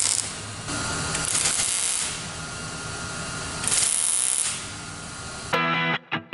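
Power grinder working rust out of a steel car door panel: a steady motor whine under a harsh grinding hiss that swells and eases as the disc is pressed on and lifted. About five and a half seconds in, it gives way to rock music.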